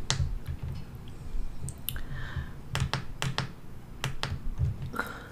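Close-up chewing of a soft baked cookie: a steady run of low jaw thuds with many sharp wet mouth clicks scattered through it.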